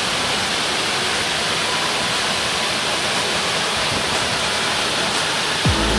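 Steady rush of waterfall water. Background music comes in near the end.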